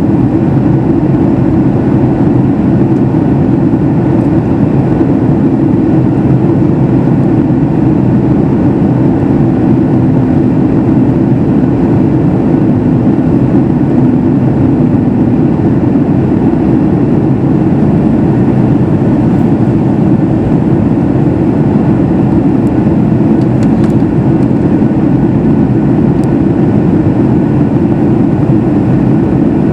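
Steady, deep drone inside the cabin of a Boeing 737 MAX 8 in flight: the CFM LEAP-1B engines and the rush of air along the fuselage, holding an even level throughout.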